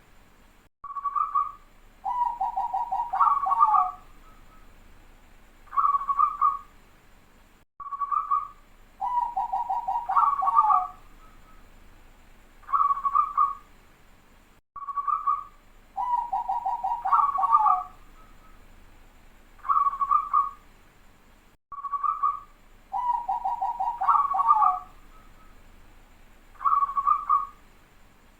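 Zebra dove (perkutut) singing its cooing song: a short coo, a fast rolling trill of tightly packed notes, then closing coos. The phrase repeats about every seven seconds, four times over, the close-set, rapid-note song that perkutut keepers call 'rapat'.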